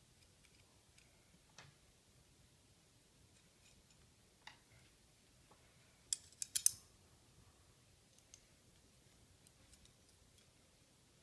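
Scattered sharp clicks in a quiet room, with a quick cluster of about four louder clicks about six seconds in.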